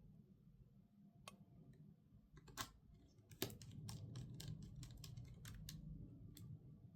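Faint, irregular small clicks and taps in quick runs over a low steady hum, from hands working on a laptop, much like keys being typed.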